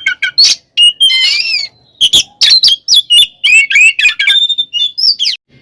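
Oriental magpie-robin singing a loud, rapid, varied song of whistled notes, harsh rasping calls and quick trills, with a brief pause about two seconds in.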